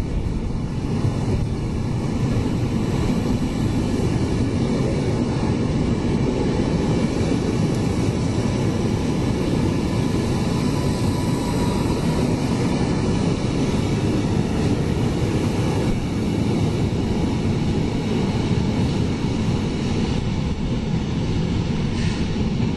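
Train at a railway station, a steady low rumble that goes on unbroken.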